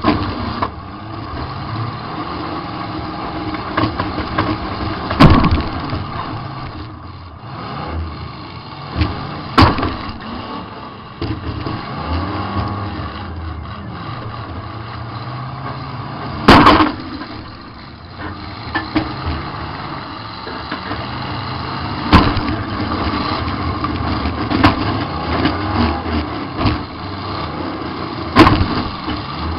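Demolition derby car's engine revving up and down, heard from inside the car, broken by about five hard crashes of metal impact a few seconds apart, the loudest a little past halfway.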